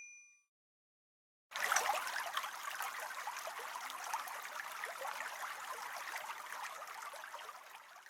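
Toilet-flush sound effect: water rushing, starting abruptly about a second and a half in and fading away near the end. The last of a chime dies out at the very start.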